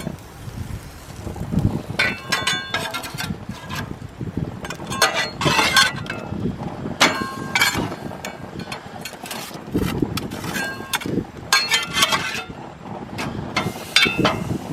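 Clinking and rattling of hard objects, coming in several short clusters of ringing clicks, over a low rumble.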